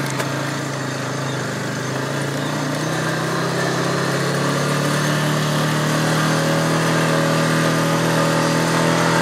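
ATV (quad) engine running steadily under way, its pitch rising a little about three seconds in and then holding.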